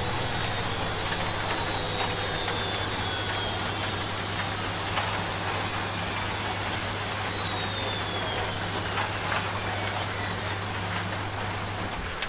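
Washing machine spinning down: a high motor whine falls steadily in pitch as the drum slows, over a steady low hum that cuts off near the end. Rain patters underneath.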